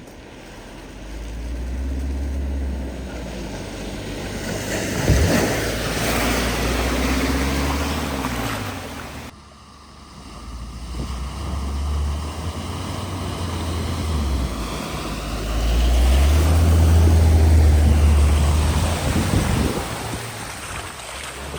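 Vehicles driving through a flooded ford: water splashing and surging against the wheels and bodywork over engine noise, with wind buffeting the microphone. The sound breaks off abruptly about nine seconds in and a second crossing follows.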